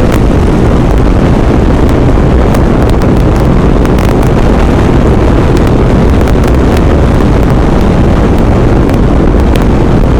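Strong gusting wind blasting across the microphone of a moving motorcycle, with the motorcycle's engine running as a steady low drone underneath. The wind noise is loud and continuous, with small buffeting clicks throughout.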